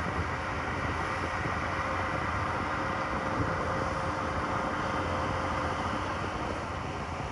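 Heavy earthmoving machine's diesel engine running steadily, with a faint steady whine over it.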